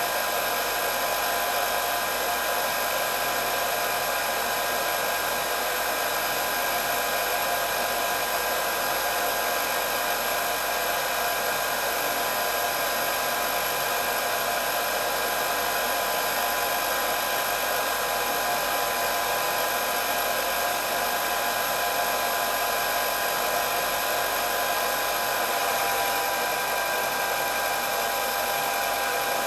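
Hair dryer running steadily: an even blowing whir with a few constant high tones from the fan motor.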